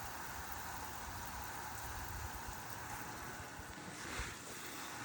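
Garden hose spraying water onto plants and soil: a steady, even hiss of falling water.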